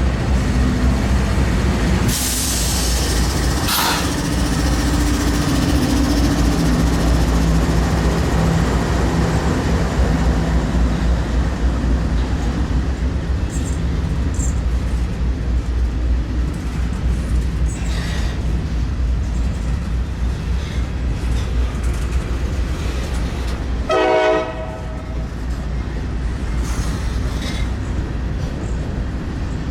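Norfolk Southern freight train hauled by GE diesel locomotives (a D9-40CW and an AC44C6M) running past, with a steady heavy engine drone and rolling rail noise. A short horn note sounds about four-fifths of the way through.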